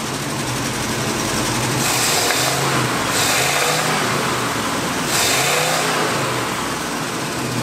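Carbureted pickup truck engine, with a 750 Holley and an HEI distributor, running and being revved up and down by hand at the throttle for a total-timing check. The revs swell and drop back several times.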